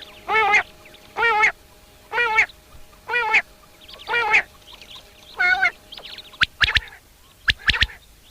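A run of six nasal, quavering calls about once a second, then, from about six seconds in, two sharp three-note phrases of the common quail's 'pik-per-wik' song about a second apart.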